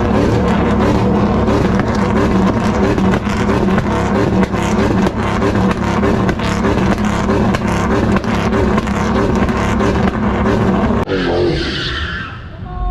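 A car engine held at high, steady revs with a crackling exhaust, cutting off sharply about eleven seconds in.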